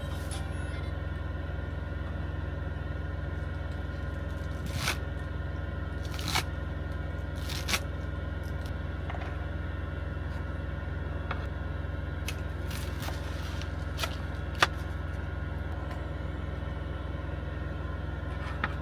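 Steady low hum, like an idling engine heard from inside a small cab, with a handful of sharp clicks and light scrapes from things being handled, the loudest click about two-thirds of the way through.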